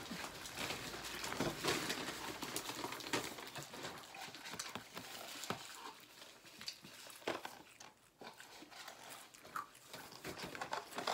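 Chewing and mouth sounds of people eating french fries and a burger, with scattered small clicks and soft rustles; it gets quieter after the middle.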